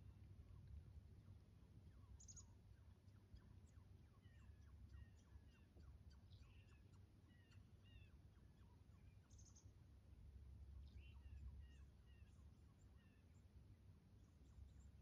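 Faint small birds chirping now and then over a low steady rumble; otherwise near silence.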